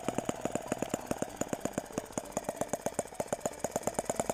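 Miniature petrol-fuelled model engine running just after being started, giving a rapid, even train of sharp firing beats, about ten a second.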